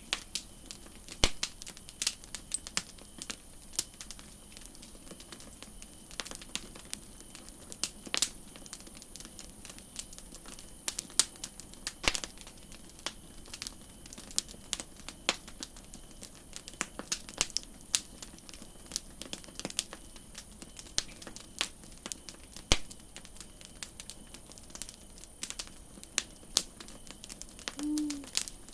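Campfire crackling, with irregular sharp pops and snaps of burning wood over a faint steady hiss. Near the end there is one short, low-pitched sound.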